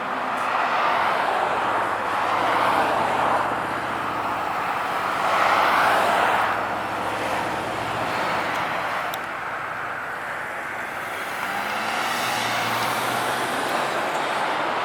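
Cars driving past one after another, their engine and exhaust noise swelling and fading about three times.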